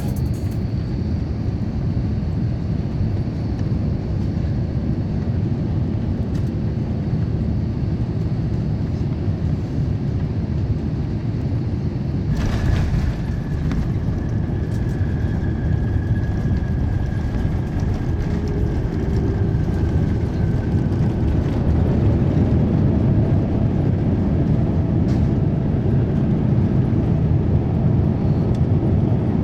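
Steady cabin noise of an Airbus A350-900 airliner on its descent: a low, even rush of engines and airflow. About twelve seconds in there is a brief, louder burst of noise, and the overall level rises a little near the end.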